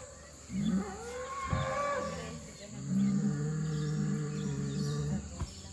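A bull mooing: a short call, a bending call, then one long low moo lasting about two and a half seconds. The camper takes the mooing for the bull warning off the cattle on the other side of the fence to protect his calves.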